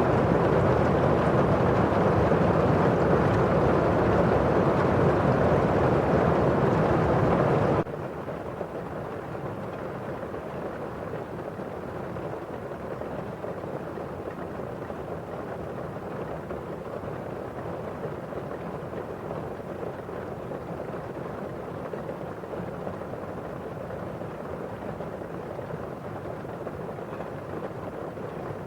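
Steady rain pattering on a window pane with the rain outside as a constant hiss. About eight seconds in the sound drops abruptly to a quieter, duller steady hiss.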